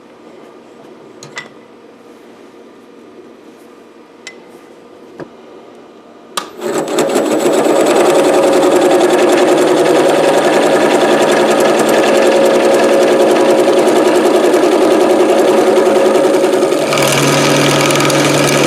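A few faint clicks, then about six seconds in a wood lathe starts with a sharp click and a tree limb spins as a turning tool cuts it: a loud, steady running hum with rough scraping of wood. Near the end the cut turns brighter and harsher.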